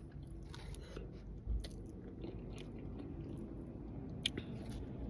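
A person chewing food close to the microphone, with soft mouth sounds and a few small scattered clicks over a faint low hum.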